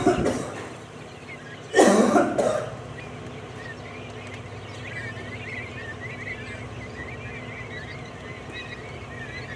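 Quail in a pen chirping faintly and repeatedly, with two loud short rasping bursts right at the start and about two seconds in.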